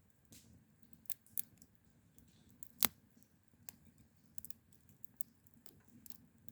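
A run of scattered sharp clicks and snaps at irregular intervals, one much louder just before the middle.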